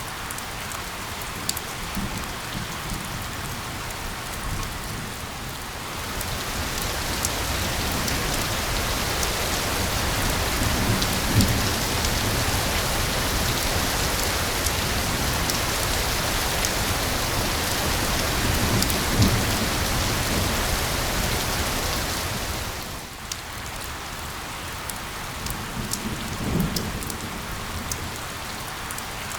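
Steady rain, with scattered individual drops ticking. The downpour grows heavier and louder about six seconds in and eases back about seven seconds before the end. A few low rumbles sound beneath it.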